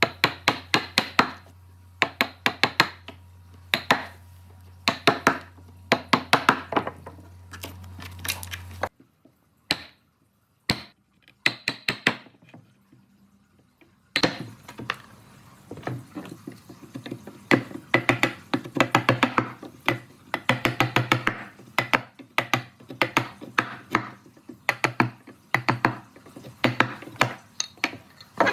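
Quick clusters of sharp taps and knocks on wood, over a low steady hum that stops about nine seconds in; after a few quieter seconds, dense rapid tapping resumes.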